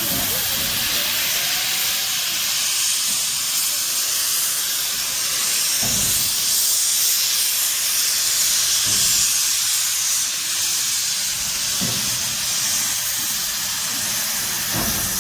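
Steam locomotive C61 2 hissing steam loudly and steadily while it is turned on the turntable, with a low thump every few seconds.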